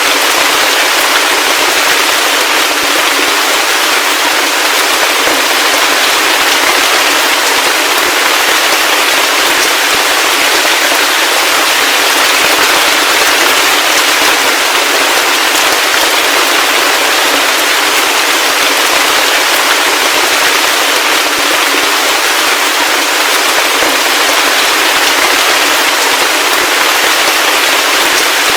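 Heavy rain falling steadily: a dense, even hiss of countless drops with a fine crackling texture and no low rumble.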